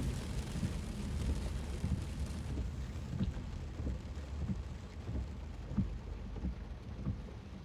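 Heavy monsoon rain pattering on a moving car, heard from inside, over a steady low road rumble. The hiss of the rain softens about two and a half seconds in.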